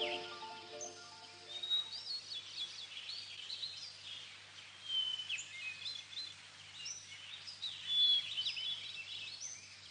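Birds chirping: many short, quick high notes rising and falling in pitch. Music fades out in the first second or two.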